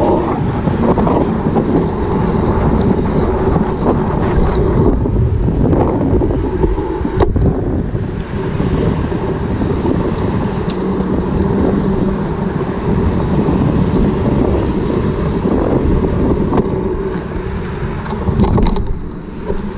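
Wind buffeting a head-mounted GoPro's microphone while riding, a loud, steady rumbling rush with road noise underneath.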